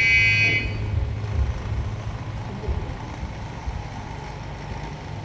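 An electronic buzzer sounding a steady high tone cuts off about half a second in, followed by a low steady rumble with faint knocks. A buzzer at kendo practice typically signals the end of a round.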